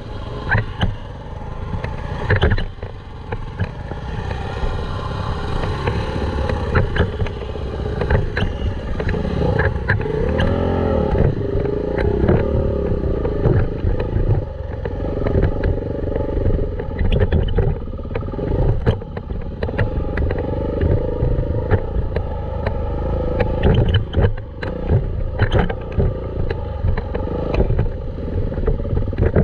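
Dirt bike engine running while being ridden, its pitch rising and falling with the throttle, with frequent sharp knocks and rattles.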